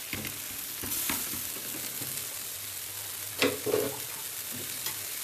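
Leftover food sizzling as it is reheated in a hot stainless steel wok: a steady frying hiss, broken by a few short knocks, the strongest about three and a half seconds in.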